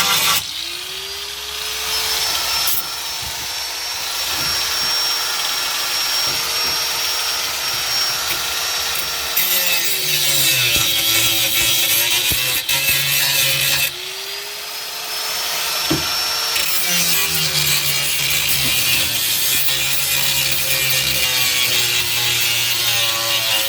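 A handheld power tool's motor spins up to a steady high whine, then drops in pitch and labours under load as it works into sheet metal. This happens twice, the second spin-up coming about 14 seconds in.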